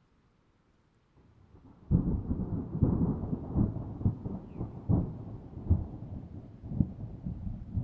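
Thunder: near quiet at first, then a faint low rumble that breaks into a loud clap about two seconds in. The clap rolls on as a series of low rumbling peaks and slowly eases off.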